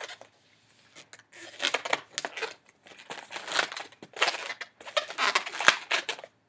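Latex twisting balloons rubbing and squeaking against each other in a run of irregular scratchy bursts as a white 260 balloon's end is worked around and tied off.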